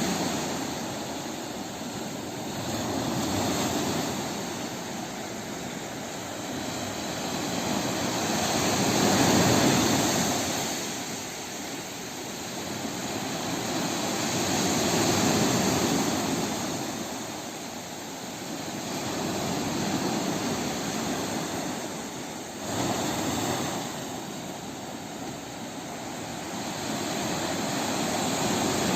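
Sea waves surging and receding in slow, irregular swells every few seconds, with a short sharper wash about 23 seconds in.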